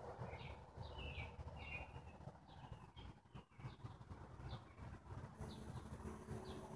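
Small birds chirping, faint short falling chirps repeated at irregular intervals, over a low background rumble.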